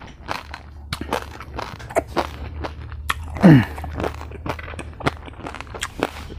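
Close-up crunching and chewing of crispy fried pork belly, the crackling skin giving many short sharp crunches. About halfway through there is a short falling hum of the voice, a brief "mmm".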